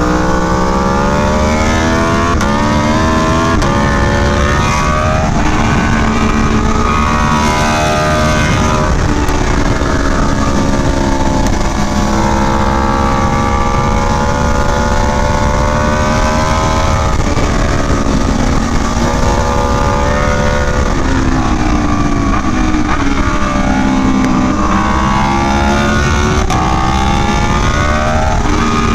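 Aprilia Tuono V4 1100 Factory's V4 engine through an SC Project CR-T exhaust, heard from the rider's seat on track: the note climbs hard under throttle and drops off again several times over, with wind rushing over the microphone.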